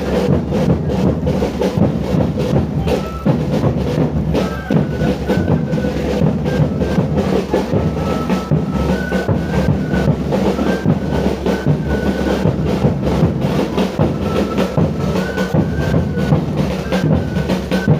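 Live music: drums beating under a high, simple melody of short held notes, played for a pesebre group's dance procession.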